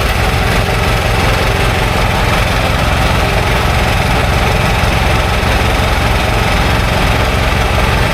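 An engine running steadily at constant speed, with a fast, even low throb.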